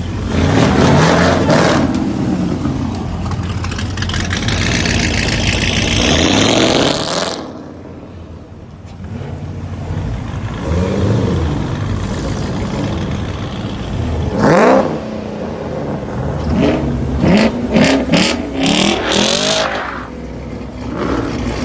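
Sports-car engines revving hard and accelerating away one after another, several rising and falling rev sweeps with a quieter lull about a third of the way in. Near the end a Chevrolet Camaro revs repeatedly as it pulls off spinning its rear tyres in a smoky burnout.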